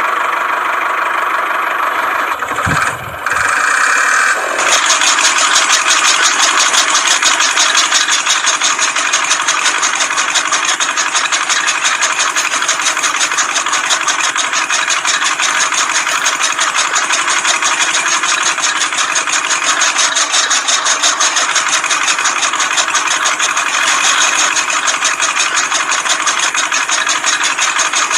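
Small motor of a homemade mini tractor running steadily with a fast, even chatter. It settles into a louder, steadier run about four and a half seconds in.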